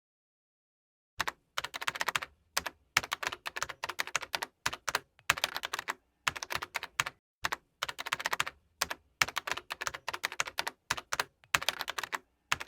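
Computer keyboard typing: rapid runs of key clicks in short bursts with brief pauses, starting about a second in.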